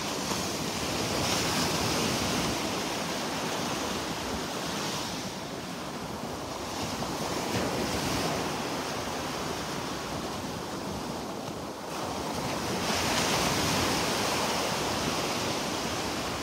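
Gulf of Mexico surf washing onto a sandy beach, swelling and fading every few seconds, with some wind on the microphone.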